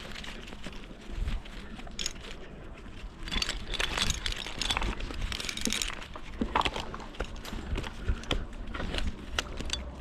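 Tree-climbing gear in use: metal hardware clinking and rope and bark rustling as the climber moves up the trunk, with scattered sharp clicks and a denser patch of scraping from about three to six seconds in.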